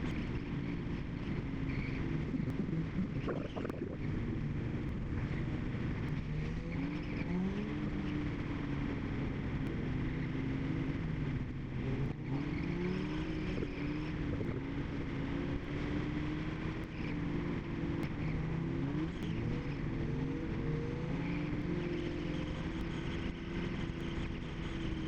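Cars cruising on a freeway: a steady tyre and road noise with several engine notes that rise and fall as the cars speed up and ease off.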